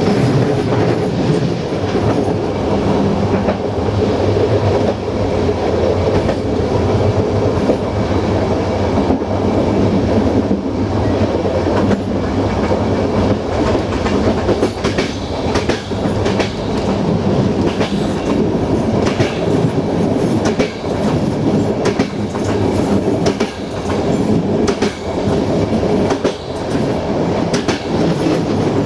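Passenger train running along the line, heard from its rear end: a steady rumble of wheels on rails with clickety-clack as the wheels pass over rail joints. Sharp clacks are scattered throughout and come more often in the middle.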